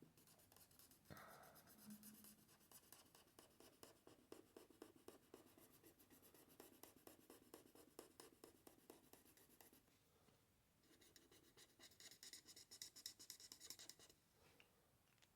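Faint scratching of an Ohuhu alcohol marker's nib on paper in many quick colouring and blending strokes, with a brief pause about ten seconds in before the strokes resume.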